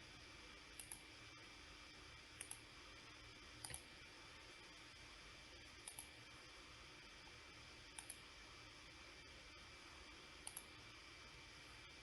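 Faint computer mouse clicks, mostly quick double clicks, about six pairs spaced a second or two apart, over a low steady hiss.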